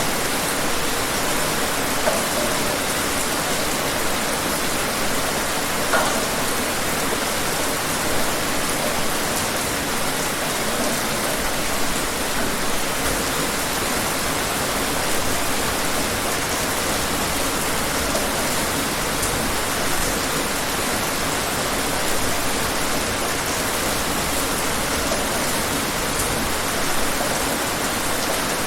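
Steady rain falling, a dense even hiss with occasional louder drops.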